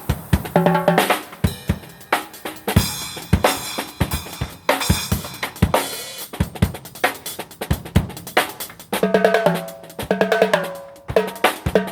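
Drum kit played live in a busy groove: kick drum, snare and cymbals. A pitched instrument plays short melodic phrases about half a second in and again near the end.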